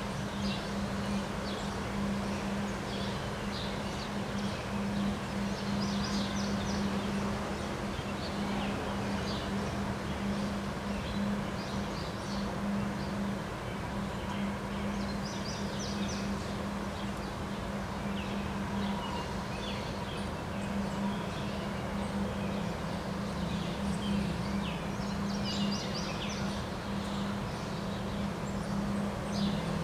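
Small birds chirping on and off over a steady rush of outdoor noise, with a constant low hum underneath.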